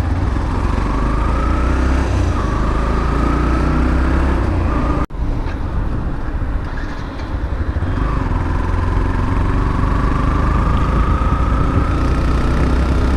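Yamaha FZS V3's 150 cc single-cylinder engine running while riding at speed, under a heavy low rumble of wind on the microphone. Its pitch climbs slowly as the bike accelerates, near the start and again through the second half, with a brief cut-out about five seconds in.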